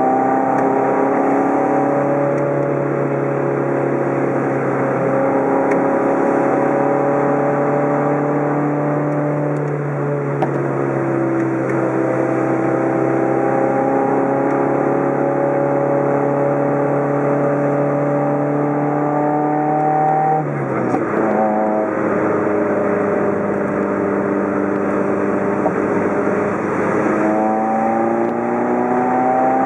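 Car engine heard from inside the cabin while cruising on a winding road, with steady road and tyre noise. Its pitch rises and falls with the throttle. About twenty seconds in the pitch drops sharply with a brief break, like a gear change, and near the end it climbs again as the car accelerates.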